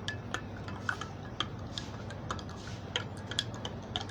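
A spoon stirring milk in a container, clinking irregularly against its sides with short ringing ticks.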